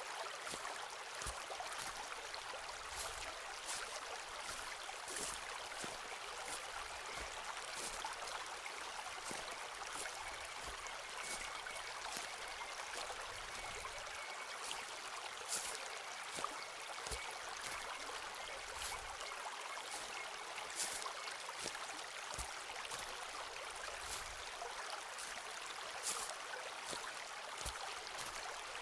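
A forest stream running steadily, with footsteps on the trail heard as scattered light crunches and clicks over it. A faint thin high tone holds for several seconds around the middle.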